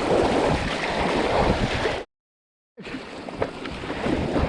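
Fast river water in high flow rushing around a kayak, with splashes and wind buffeting the microphone. The sound cuts out completely for under a second about two seconds in.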